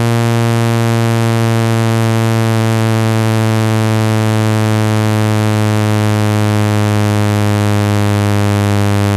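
Synthesized low buzzing tone, a phone speaker-cleaning sound meant to shake dust out of the speaker. It holds one steady, loud, buzzy pitch with many overtones.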